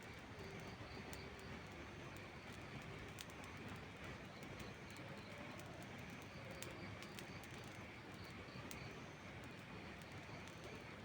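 Steady rain hiss with the sharp, scattered pops of a crackling wood fire, and faint short bird calls repeating in the background.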